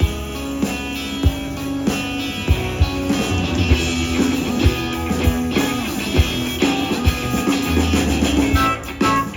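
Live blues-rock band playing an instrumental passage: electric guitar over bass and drum kit, with a steady beat.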